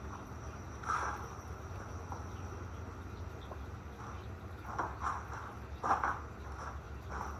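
Crickets chirping steadily over a low hum in a film's ambience track, with a few short soft noises about a second in and again around five to seven seconds.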